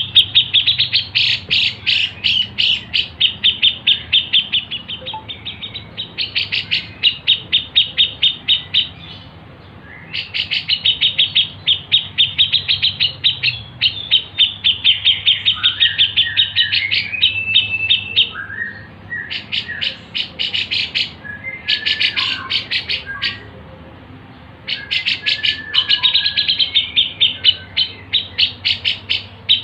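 A recorded songbird singing: long rapid trills of evenly repeated high chirps, each run lasting a few seconds with short pauses between, mixed with a few lower, falling whistled notes.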